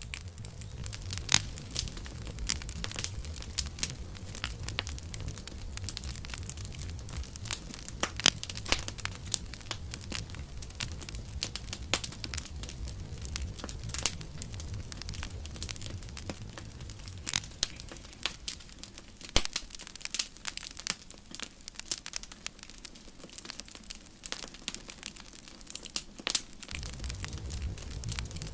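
A wood campfire crackling, with frequent sharp pops and snaps over a low rumble from the flames. The rumble fades for several seconds in the second half and comes back near the end.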